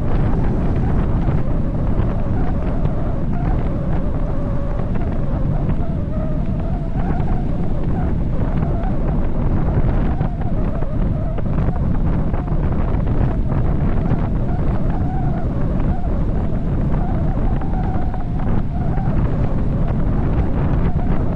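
Wind rushing over the camera microphone on a bicycle descending at high speed: a loud, steady low buffeting, with a faint wavering hum running through it.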